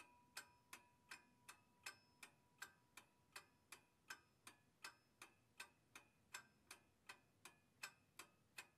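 Faint, even ticking of a clock, nearly three ticks a second.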